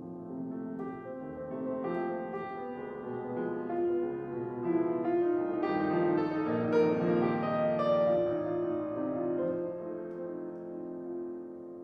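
Piano playing classical music, a dense run of notes that swells louder in the middle and then softens.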